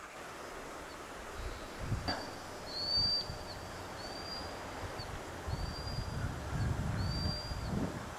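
A bird calling again and again with a thin, high whistle, about one call a second, over wind rumbling on the microphone.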